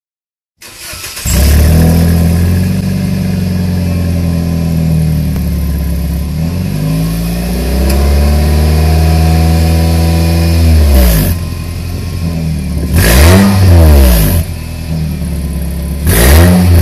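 Nissan Cube YZ11's 1.5-litre four-cylinder engine through a Kakimoto GTbox 06&S aftermarket exhaust, running steadily, then revved up and held for a few seconds from about 7 s before dropping back, followed by quick throttle blips around 13 to 14 seconds and again near the end.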